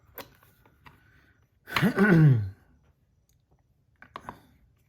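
A few light clicks and taps as the small metal fidget parts are handled and set down for weighing, with a short voiced sound from a man, falling in pitch, about two seconds in.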